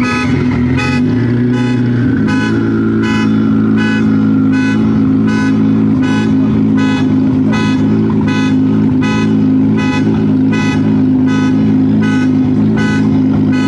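A car engine held at a steady speed, running evenly, with a sharp, tone-carrying pulse repeating about twice a second over it.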